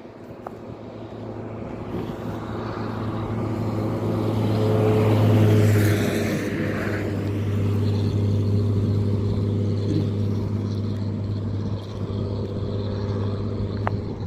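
A motor vehicle's engine running close by with a steady low hum. It grows louder over the first few seconds, is loudest about five seconds in, and stays loud afterwards.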